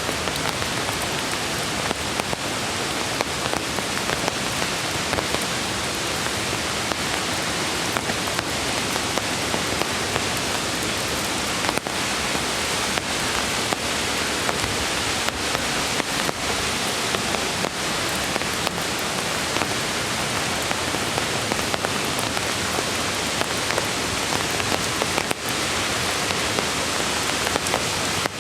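Steady hiss of rain mixed with rushing creek water, with scattered sharp ticks.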